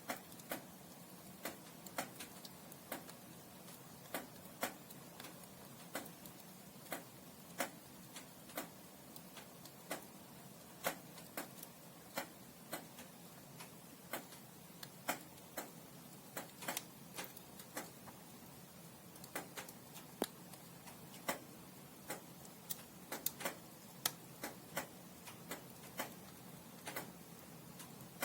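Firewood burning in a fireplace: irregular sharp crackles and snaps, one to three a second, over a faint steady hiss.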